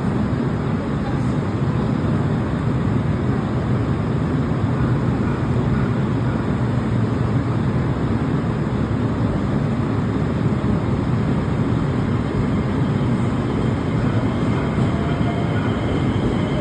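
Electric passenger train running with a steady rumble. Near the end, a rising whine comes in as it accelerates.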